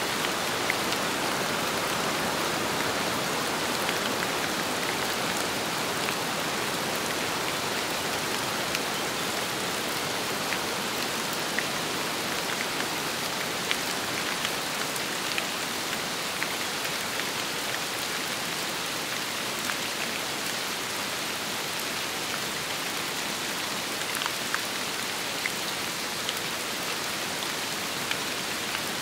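Steady rain falling, mixed with wind, with many single louder drops ticking sharply through the even hiss.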